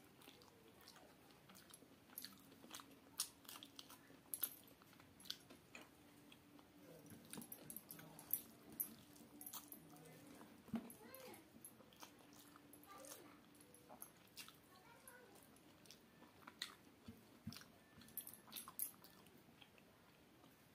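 Quiet chewing of hand-eaten rice, dal and fried vegetables: soft, irregular mouth clicks, smacks and small crunches.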